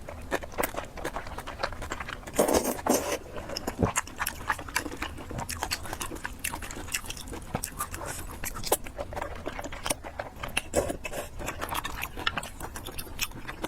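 Close-miked eating: wet chewing and lip smacking of noodles and pork, with many small clicks and a few louder slurps or bites about two and a half seconds in and near eleven seconds.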